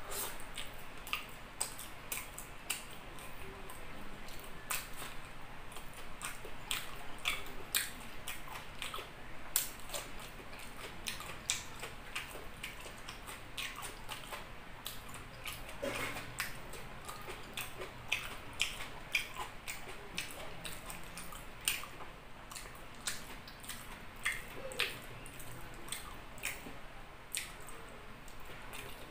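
A person eating chicken liver adobo and rice with the hand, close to the microphone: wet chewing and lip-smacking heard as an irregular run of short sharp clicks.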